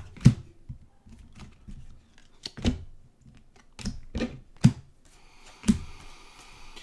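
Trading cards and their packaging being handled on a table: a series of sharp taps and clicks, with a soft rustle of card and foil near the end.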